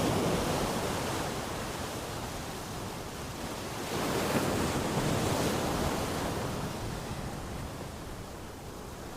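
Ocean waves breaking and washing on a beach, a steady rush of surf that swells again about four seconds in and slowly fades.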